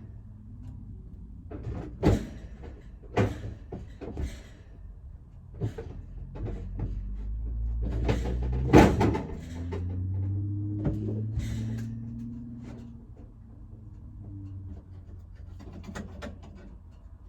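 A string of knocks and bangs, like doors or cupboard hatches being opened and shut, over a low hum that swells in the middle and then fades.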